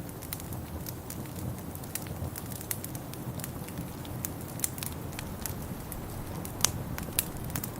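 Wood fire crackling in a fireplace: frequent sharp pops and snaps over a steady low rumble, with two louder pops near the end.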